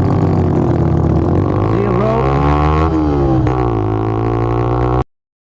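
Motorcycle engine running under way, its pitch sagging, rising and falling smoothly as the revs change. It cuts off abruptly about five seconds in.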